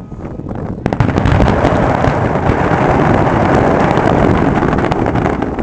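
Fireworks going off in a dense, continuous barrage of rapid bangs and crackling that starts about a second in and holds loud to near the end.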